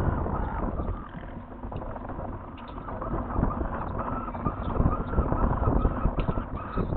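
Saker falcon chick giving repeated short calls over a steady low rumble of wind on the microphone, with scattered knocks.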